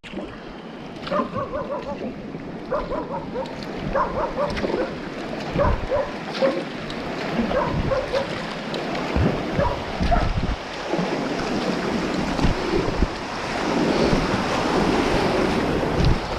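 River rapids rushing and splashing around a moving kayak, with wind buffeting the microphone and a few low thumps; the rush grows louder in the second half. In the first half, short high-pitched chirps come in quick clusters.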